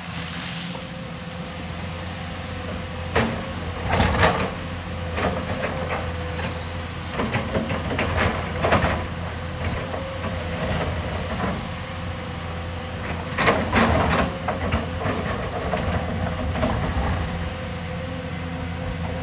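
Hyundai hydraulic excavator's diesel engine running steadily with a steady whine, broken by bursts of clanking and rattling, loudest about four seconds in and again about fourteen seconds in.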